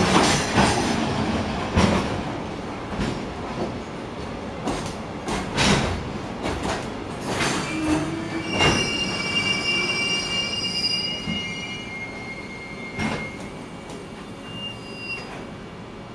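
Freight train wagons rolling past as the train pulls into the station, their wheels knocking over the rail joints. From about eight seconds in come several seconds of high, steady wheel squeal. The sound fades toward the end.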